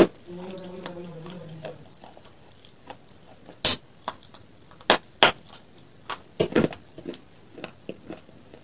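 A person bites and chews a crisp pale dessert-topping piece close to a clip-on microphone, giving a series of separate sharp crunches that start a little under four seconds in. Before the crunches there is a short closed-mouth 'mm' hum.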